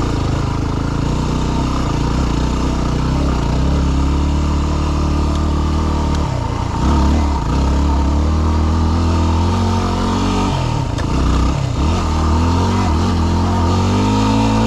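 Yamaha WR250R's single-cylinder four-stroke engine running as the dirt bike is ridden, the revs dropping briefly about six seconds in and again about ten to twelve seconds in, then climbing near the end.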